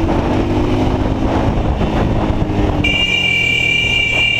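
Motorcycle engine running at road speed with rumbling wind noise. About three seconds in, a high-pitched horn starts and is held steady.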